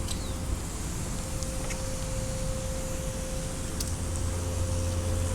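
Steady low rumble of road traffic with a constant hum, and a faint chirp or two.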